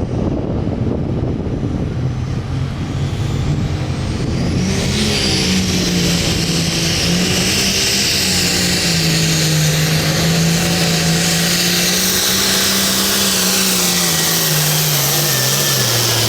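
Diesel engine of a Hot Farm class pulling tractor running hard under load: it revs up about four seconds in, holds a high steady pitch with a loud high whistle and hiss over it, then its pitch drops near the end as it comes off the throttle.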